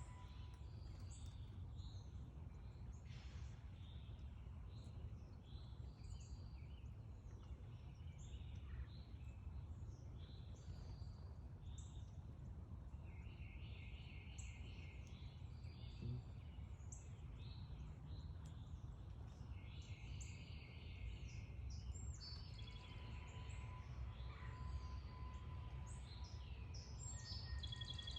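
Several backyard birds chirping with many short high notes, and a rapid trill twice in the middle, over a steady low rumble.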